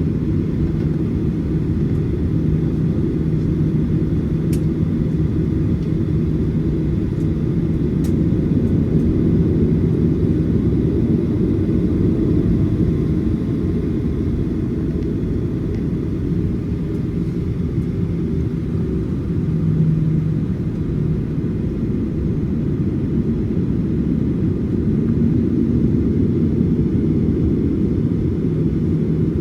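Steady low vehicle rumble with a faint even hum.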